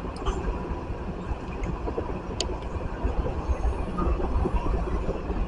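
Low, steady rumble of a freight train of tank cars rolling through a grade crossing, heard from inside a stopped car. A single sharp click comes about two and a half seconds in.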